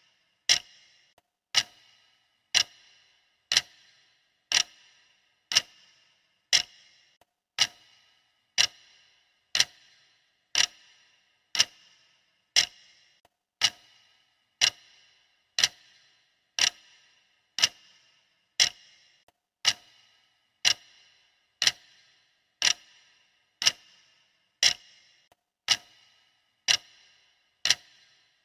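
Clock ticking steadily, one sharp tick a second, each tick with a brief ringing decay.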